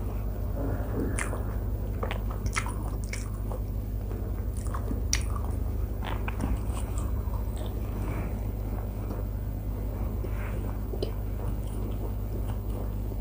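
Close-miked sounds of a person eating sattu paratha with curry by hand: chewing and biting with scattered wet smacks and clicks, over a steady low hum.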